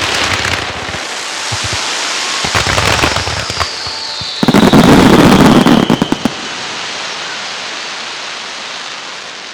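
Fireworks display: shell bursts and crackling, with the loudest burst about halfway through lasting over a second, and a falling whistle through the middle. The sound then fades to a lingering rumble.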